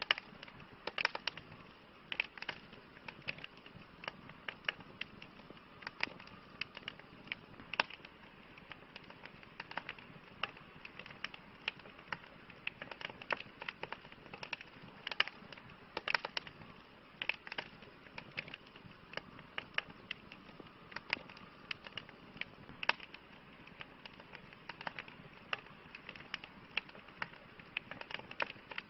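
Campfire crackling: irregular sharp pops and snaps over a steady soft hiss of burning wood.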